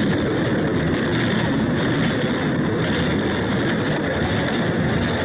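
A moving train running with a steady, unbroken rumble.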